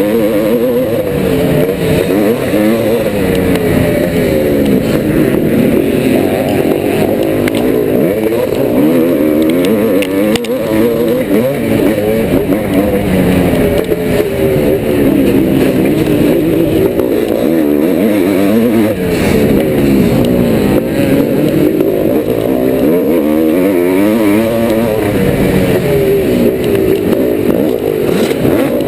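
1990 Yamaha YZ490's two-stroke single-cylinder engine under hard riding, revving up and down repeatedly as the throttle is opened and shut.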